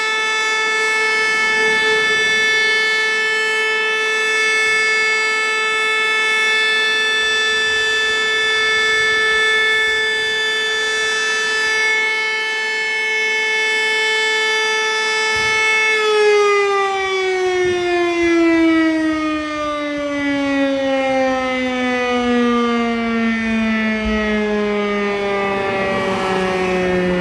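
Fire station alarm siren sounding the call-out: a steady, loud held tone, then about 16 seconds in it is cut off and winds down, its pitch falling slowly and smoothly as the rotor spins down.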